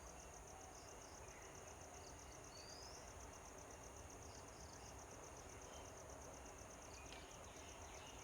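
Faint insect chirping: a steady trill of quick, evenly spaced high pulses, several a second, over low background hiss, with a few brief faint bird chirps, including one short rising note a little under halfway through.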